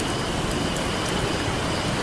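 Steady wash of ocean surf, with a few faint pops from a crackling campfire.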